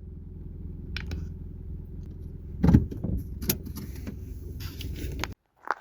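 Car running, heard from inside the cabin as a steady low rumble, with scattered clicks and knocks and one heavier thump about three seconds in; the sound cuts off abruptly near the end.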